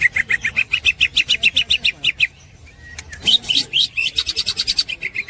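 Cucak ijo (green leafbird) giving its rapid chattering 'ngekek' call: two long runs of quick repeated notes, about nine a second, with a short pause between them.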